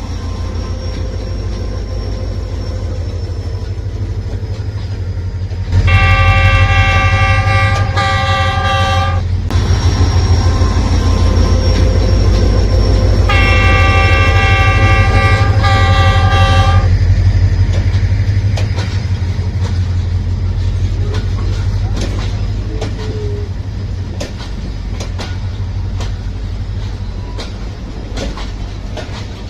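Pakistan Railways diesel locomotive hauling a passenger train in, its engine rumbling steadily, with two long blasts of its multi-tone horn, each about three and a half seconds, a few seconds apart. In the later part, the wheels click over the rail joints.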